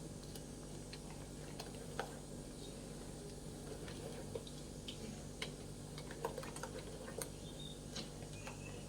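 Faint, scattered light clicks of kitchen utensils against a bowl, a dozen or so at irregular intervals, over a steady low hum.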